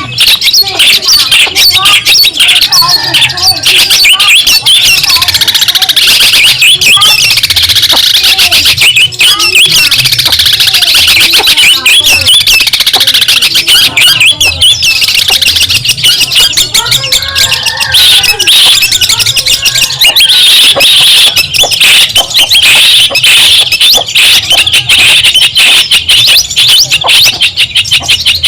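Long-tailed shrike (cendet) singing a loud, unbroken stream of rapid harsh chattering and squawking notes.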